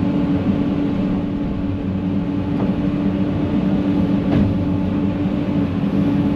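Heavy diesel engine running steadily at a constant speed: a low, even drone with a strong hum. Two faint clicks sound partway through.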